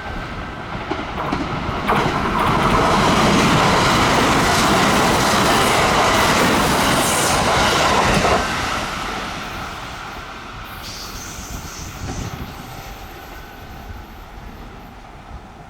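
A Kintetsu electric train passing through the station at speed without stopping, with wheels clattering over the rail joints. The noise swells, cuts off sharply about eight seconds in as the last car goes by, then fades.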